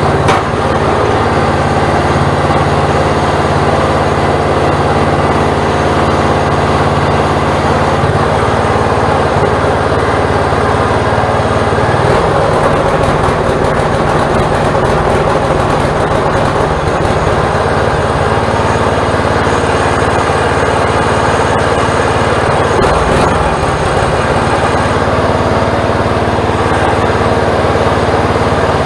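Small gasoline engine running steadily, its pitch shifting a little about eight seconds in and again about twelve seconds in, with some clicking for a few seconds after that.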